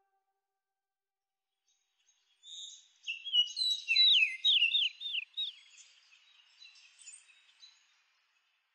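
A bird singing: after about two seconds of silence come chirps, then a quick run of five or six notes, each falling in pitch. Fainter calls follow and trail off near the end.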